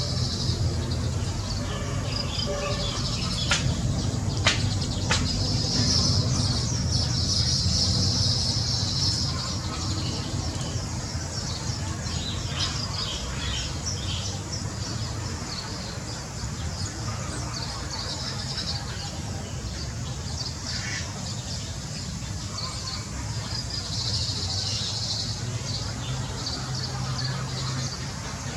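Birds chirping and calling in high-pitched bouts over a steady low background noise, with a few sharp clicks about four seconds in.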